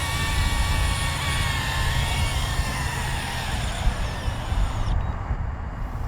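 DJI Avata 2 FPV drone's propellers whining as it comes back in to land, the pitch sinking a little as it slows, over a steady low rumble. The high part of the sound cuts off suddenly about five seconds in.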